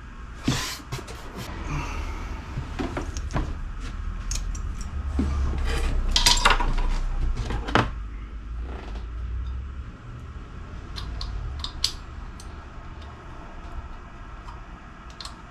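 Metal tools clinking and knocking against a motorcycle wheel's rim and valve stem while a new tube and tyre are fitted. Scattered sharp clicks, with a low rumble of handling noise through the first two-thirds.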